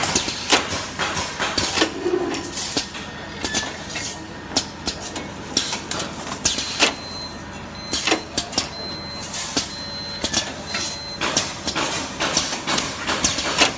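Automatic packing machine for bamboo chopsticks and skewers running: a steady motor hum under irregular clacks and knocks from the mechanism. A string of short, high electronic beeps sounds about halfway through.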